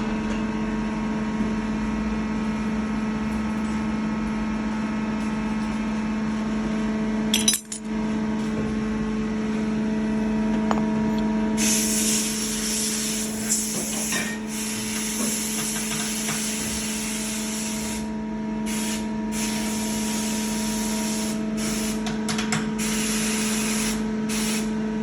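CNC machine running with a steady hum while machining a part. About twelve seconds in, a loud hiss of spray joins it and breaks off briefly several times near the end.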